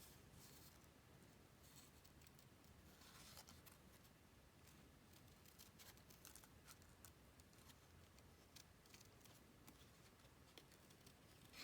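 Faint snipping of small scissors cutting out stamped bird images from card, as scattered light clicks with a brief rasp about three seconds in.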